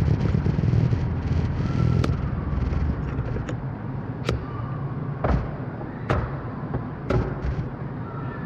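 Motor scooter ride: engine and road rumble that eases off after about two seconds. It is broken by about six sharp knocks, roughly one a second.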